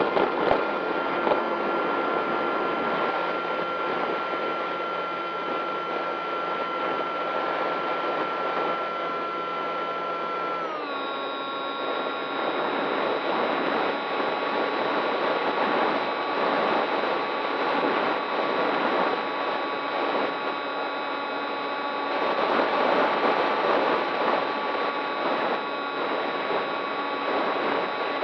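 Electric motor of an RC model plane running at a steady high whine over a rush of air noise, dropping slightly in pitch about eleven seconds in as the throttle is eased back, then holding steady again.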